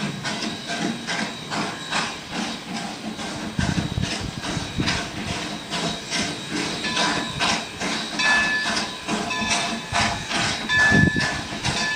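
A train moving slowly with hissing steam and a continuous run of knocks. Short high-pitched squeals come and go in the second half.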